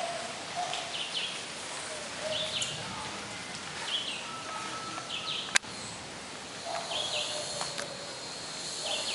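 A bird calling outdoors, repeating a short high chirp about once a second over a steady background hiss, with one sharp click a little past halfway.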